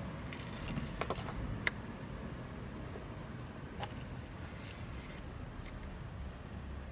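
Light metallic clinks and jingles, like small metal parts or keys being handled, with a sharp click about a second and a half in and another near four seconds, over a low steady rumble.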